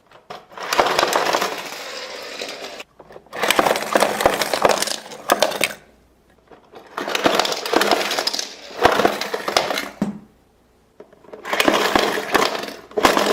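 Rapid plastic clicking and rattling from a toy die-cast car race-case launcher being worked by hand, in four bursts of two to three seconds each.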